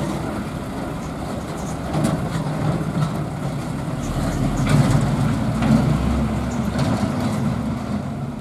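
Heavy sand-and-stone hauling trucks' engines running as a group of three passes, the deepest, loudest rumble coming about halfway through.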